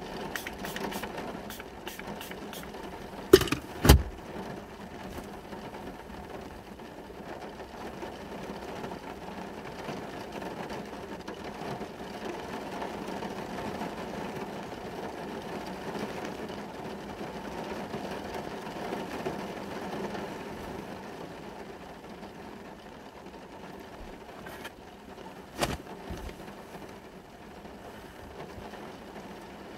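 Rain on a car, heard from inside the cabin, over a steady hum. Two sharp knocks come about three and four seconds in, and another a few seconds before the end.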